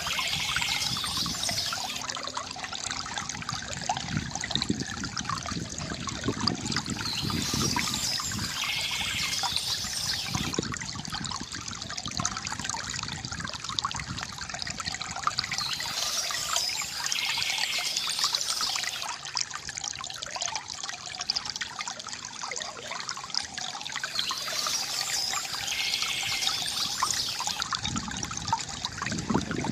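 Stream water trickling and babbling steadily. A high bird song phrase recurs about every eight or nine seconds, four times in all.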